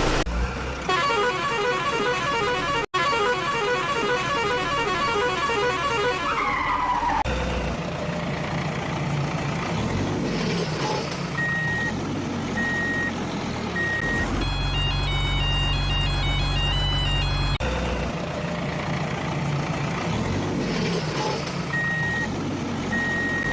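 Electronic toy vehicle sound effects: a fast warbling tone pattern that ends in a falling glide about seven seconds in, then a recorded engine-like rumble with evenly spaced high beeps and short electronic jingles over a low hum, that beep-and-jingle sequence playing twice.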